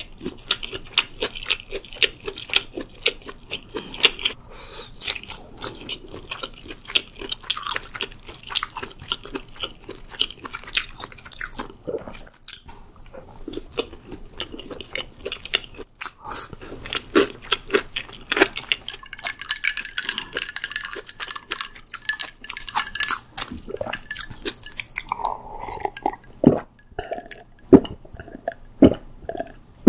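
Close-miked chewing of a grilled sausage: wet mouth clicks and soft squishing, steady and continuous. Near the end, a series of swallowing gulps as a drink is downed.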